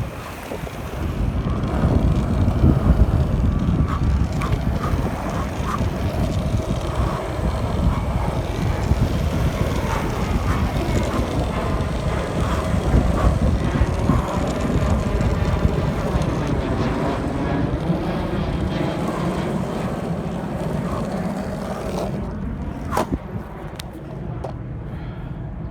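Skate wheels rolling fast down fresh asphalt, with heavy wind rushing over the microphone throughout. Near the end come a few sharp knocks.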